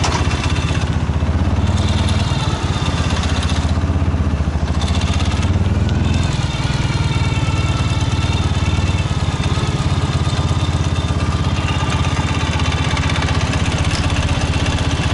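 Ural 750 motorcycle's air-cooled flat-twin engine running with a steady, pulsing note that eases a little about six seconds in.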